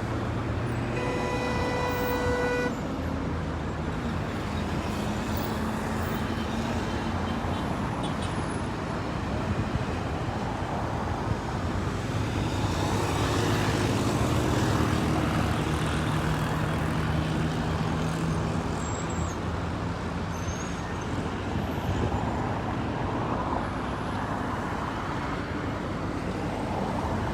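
Road traffic: vehicle engines running and passing, with one horn blast about a second in that lasts under two seconds.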